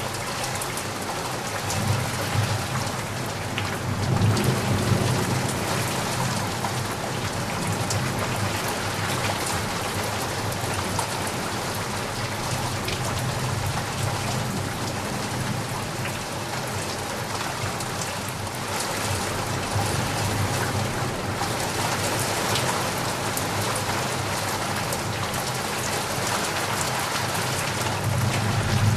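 Heavy rain falling steadily in a dense hiss, with low thunder rumbles swelling about four seconds in and again near the end.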